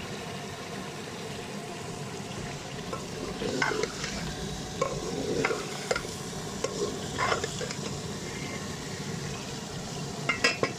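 Chicken pieces being stirred through masala frying in ghee in a cooking pot: a steady sizzle, with a utensil scraping and knocking against the pot now and then.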